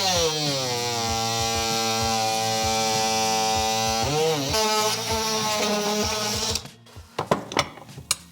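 Handheld power tool cutting into the hard plastic of an SCR AdBlue tank, running steadily with its pitch dipping as it bites under load near the start and again about four seconds in. It stops suddenly about six and a half seconds in, followed by a few sharp clicks and knocks of handling.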